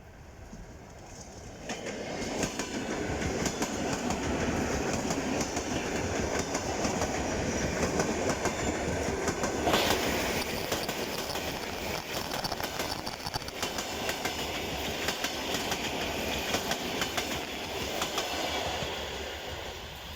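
Train running on the rails, its wheels clattering steadily over the rail joints. It grows loud about two seconds in and eases off near the end.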